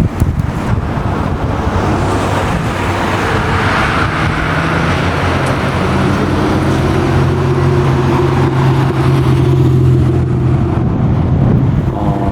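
A classic car's engine running as the car drives past, with a broad rush that swells about four seconds in, then a steady, even engine note held for several seconds; another engine note comes in near the end.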